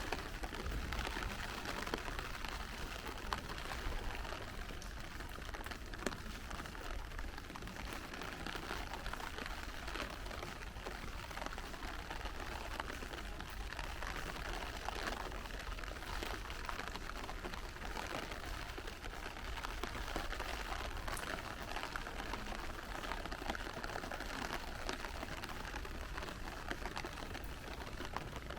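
Steady rain falling, an even hiss with many small ticks of individual drops, over a low steady rumble.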